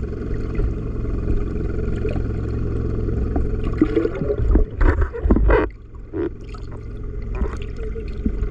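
A small boat's engine running steadily over water noise. Around four to five and a half seconds in come several loud, irregular splashes or knocks, after which the engine sound drops lower.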